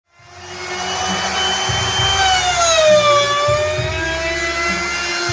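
Electric woodworking power tool motor spinning up from silence and running at full speed with a loud whine. Its pitch sags for about a second midway, as under the load of a cut, then recovers.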